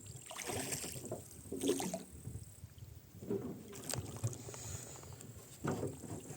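Wooden rowing boat being rowed: oars dipping and splashing with the oarlocks creaking, one stroke about every one and a half to two seconds.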